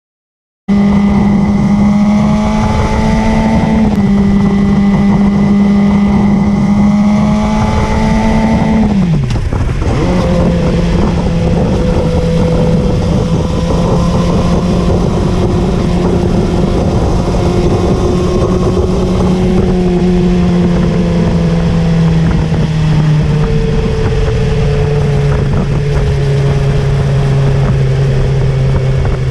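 Motorcycle engine running under way, with wind noise. It holds a steady pitch, dips sharply and picks up again about nine seconds in, then steps lower a few times near the end as the engine slows.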